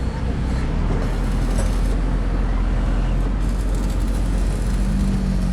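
A large vehicle's engine running steadily with a low rumble.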